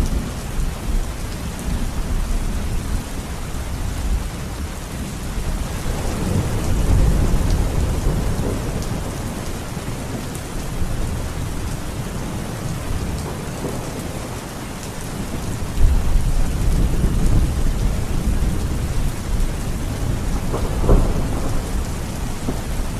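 Heavy rain falling steadily while thunder rumbles in low swells, about a third of the way in and again over the last third, with a sharper crack near the end.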